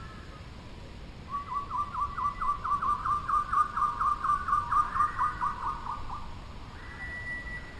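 A bird calling: a fast run of repeated notes, about five a second, for about five seconds, then a held whistled note near the end.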